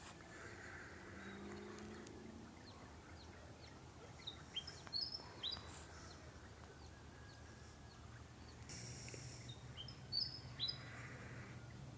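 Birds chirping in short, high calls that come in clusters about four to five seconds in and again near ten seconds, over a steady low background hum.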